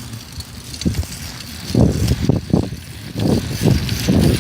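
Riding a bicycle along a road, with wind and road rumble on the handheld camera's microphone. The rumble is quieter at first, then comes in irregular low gusts from about two seconds in.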